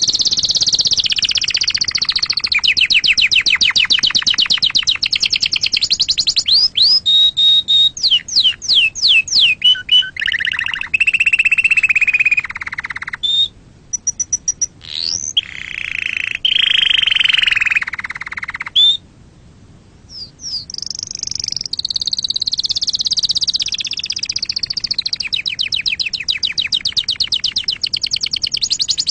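Domestic canary singing a long song of rapid trills, one phrase giving way to the next, some high and fast, some lower and rolling. It breaks off for about a second and a half around two-thirds of the way through, then goes on.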